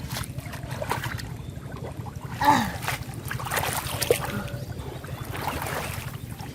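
Water splashing and sloshing in irregular surges over a steady low hum, the loudest splash about two and a half seconds in.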